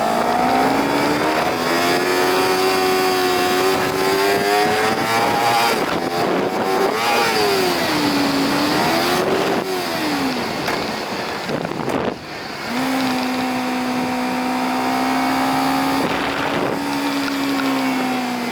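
Honda CBR250RR with its stock exhaust revving while under way: the engine note climbs, swings up and down, drops away briefly about twelve seconds in, then holds a steady high pitch that sags slightly near the end. Wind noise on the microphone runs underneath.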